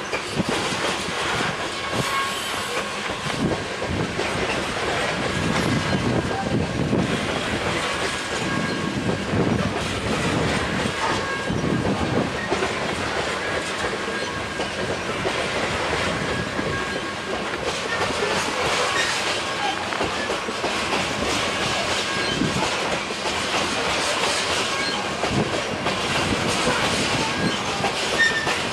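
Loaded coal hopper cars of a freight train rolling steadily past: a continuous rumble of steel wheels on rail with irregular clacks over the rail joints.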